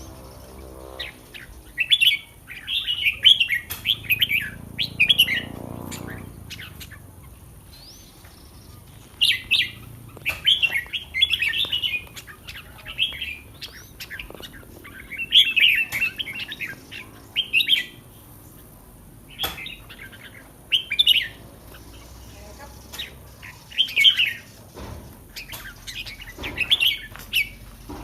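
Red-whiskered bulbul singing bright, warbling song phrases in repeated bouts a few seconds apart, with short pauses between them.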